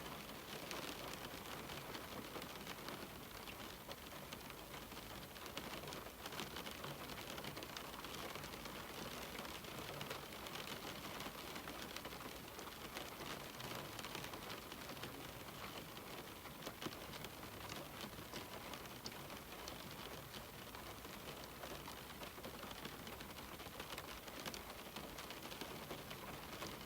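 Steady rain falling on a window: an even hiss with many small ticks of individual drops striking the glass.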